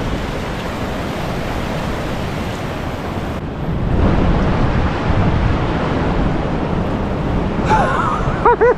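Ocean surf washing onto a beach, with wind buffeting the microphone. Near the end a few short tones rise and fall.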